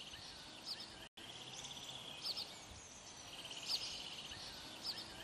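Faint birdsong: small birds giving a rapid trill twice, with short high chirps between, over a low background hiss. The sound cuts out for an instant about a second in.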